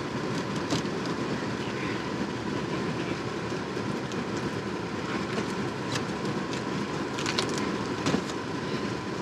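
Steady low rumble of a vehicle running, with a faint steady whine and a few light clicks and knocks scattered through it.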